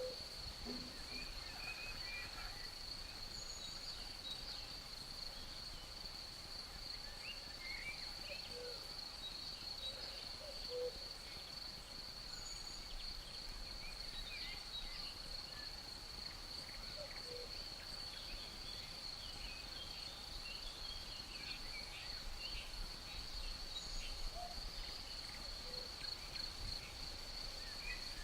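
Outdoor nature ambience: a steady, unbroken high-pitched insect trill, typical of crickets, with scattered short bird chirps and occasional brief low calls over a faint low rumble.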